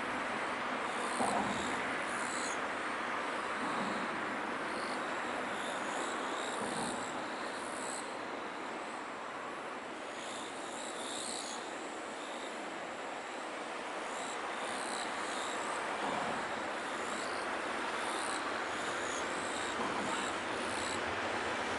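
Train running past with a steady rolling noise on the rails, with short high chirps recurring above it.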